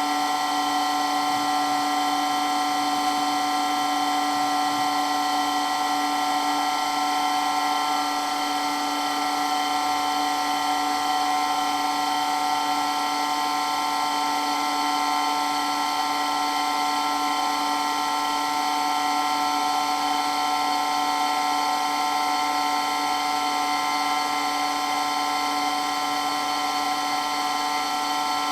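Electric water pump running continuously at a steady speed, a loud, unchanging high-pitched whine over a hum.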